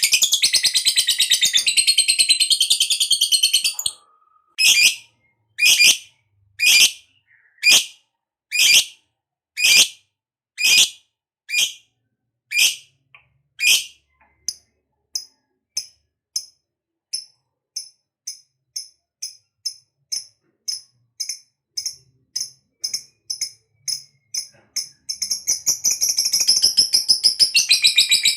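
Lovebird chattering in a long, rapid, high trill (the 'ngekek' that keepers prize), breaking after about four seconds into loud single chirps about one a second, then shorter, quicker chirps, before the rapid trill starts again near the end.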